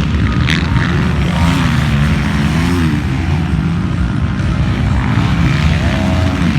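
200cc-class motocross bike engines revving on the track, the pitch rising and falling again and again as the throttle opens and closes.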